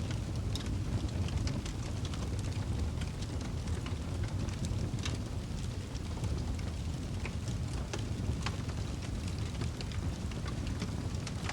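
Wood fire burning in a fireplace: a steady low rumble of flames with irregular, scattered crackles and small pops from the burning wood.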